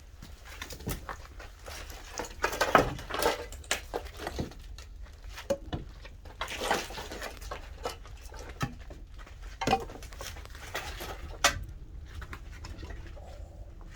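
Wood fire in a pottery kiln's firebox crackling and popping, with irregular sharp knocks, the loudest about three seconds in and again near the end.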